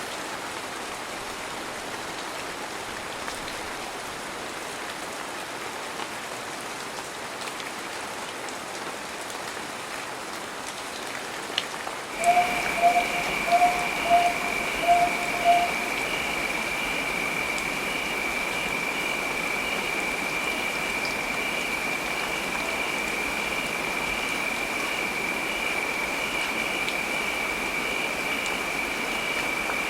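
Steady heavy rain. About twelve seconds in, a steady high-pitched tone joins the rain and runs on, and six short, louder tones sound at an even pace over the next three seconds or so.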